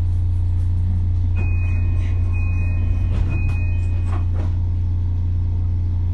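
JR Kyushu BEC819 series battery-electric train running, heard from inside the car: a steady low rumble. A thin high tone sounds in three stretches in the middle.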